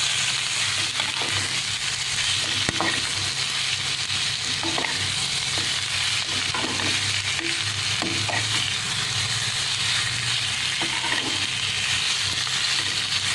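Marinated chicken pieces sizzling steadily in hot olive oil in a kadai, while a spatula stirs them with scattered light scrapes and knocks.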